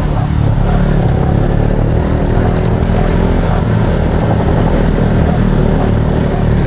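Motorcycle engine running steadily while riding, a loud, even drone with no clear revving rise or fall.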